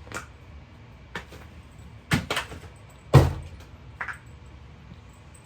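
A handful of short, sharp knocks and thumps spread out over a few seconds, the loudest about three seconds in.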